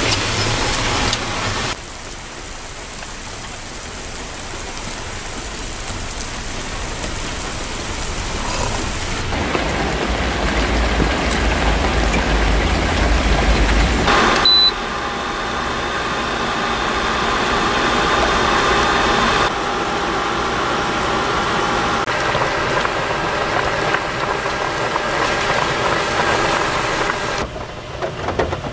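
Heavy rain pouring steadily, in several takes cut together so the sound changes suddenly a few times. A deep low rumble builds under the rain from about ten seconds in and stops abruptly near the middle.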